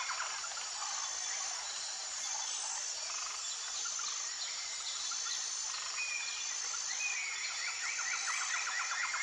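Dense chorus of calling insects and frogs: a steady high buzzing of trills with short repeated high notes over it, and faster pulsed trills that swell near the end.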